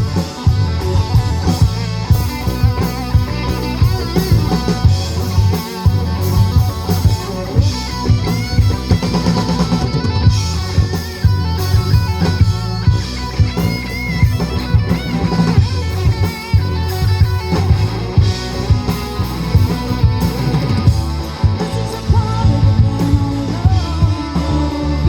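A live rock band playing a passage of a song: guitar over a steadily beating drum kit with a heavy, moving low end.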